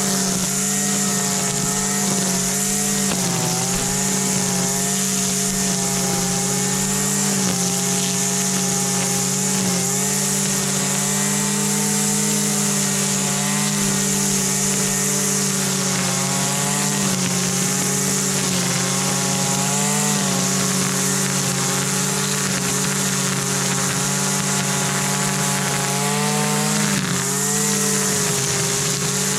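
Husqvarna 326LD string trimmer's small two-stroke engine running steadily, its pitch wavering slightly every few seconds.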